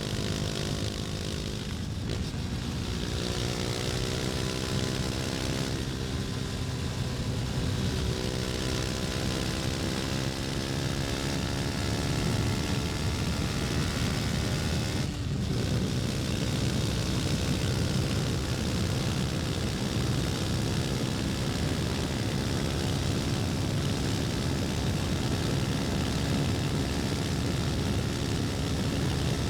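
KTM 250 Duke's single-cylinder engine pulling under load, its pitch climbing and then dropping at gear changes about two, six and fifteen seconds in, then holding a fairly steady pitch while cruising.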